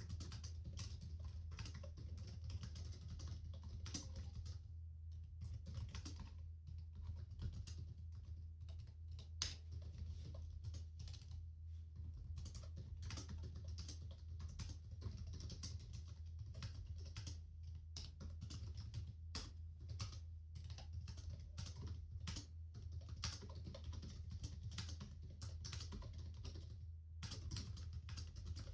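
Computer keyboard typing: a continuous, irregular run of key clicks at a steady pace, over a steady low hum.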